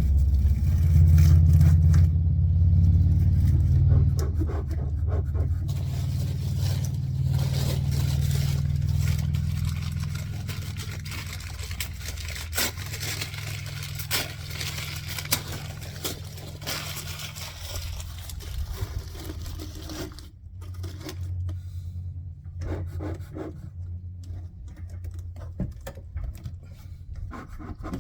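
A vehicle engine running with a steady low hum that fades away over the first half or so, then scattered scrapes, rubbing and clicks of something being handled.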